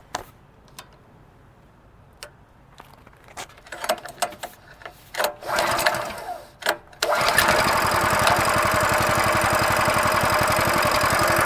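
Scattered clicks and handling noises, then the Coleman mini trail bike's 6.5 HP overhead-valve single-cylinder engine starts about seven seconds in and runs steadily with an even firing beat.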